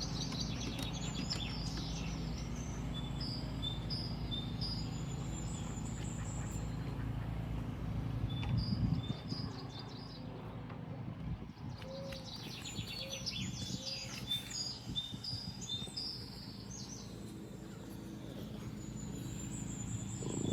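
Small birds chirping and twittering in quick, high, short calls, busiest in two spells with a lull in the middle, over a steady low background hum.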